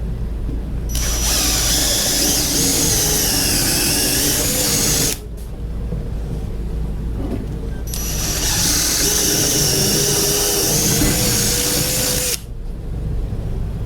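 Electric drill running in three runs of about four seconds each, with short pauses between; its motor pitch dips and wavers as it bites under load.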